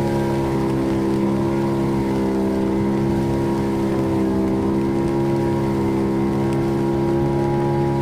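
A small fishing boat's engine running steadily at even speed while under way.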